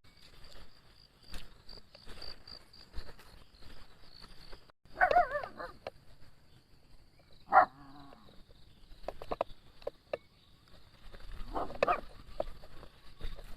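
A few short animal cries, dog-like yelps or whines with a wavering pitch, over a steady high insect buzz.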